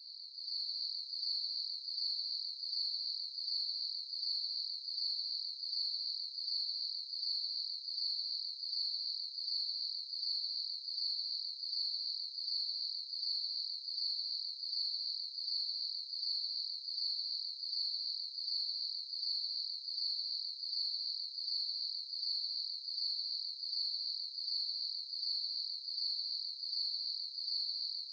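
Crickets chirping: a steady, high-pitched chorus that pulses in an even rhythm.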